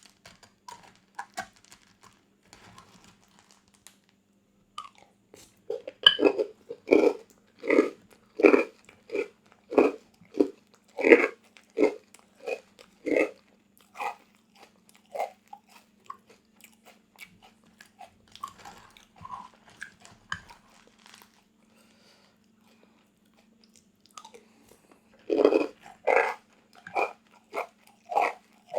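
Close-miked eating of crunchy food: a run of loud, crisp bites and crunches, about one and a half a second, followed by quieter chewing and a second burst of crunching near the end. A faint steady hum lies underneath.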